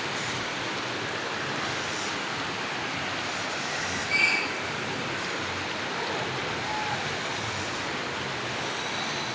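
Steady rushing of water, with a short, sharp high-pitched sound about four seconds in.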